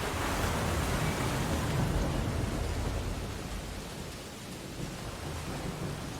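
Ocean waves on a beach: a wave breaks and surges in right at the start, loudest about two seconds in, then washes back and eases off into a steady wash of surf.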